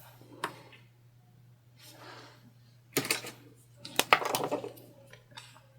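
Sewing tools and fabric being handled on a work table: a small click early, a sharp click about three seconds in, then a quick cluster of clicks and rustling a second later, over a faint steady hum.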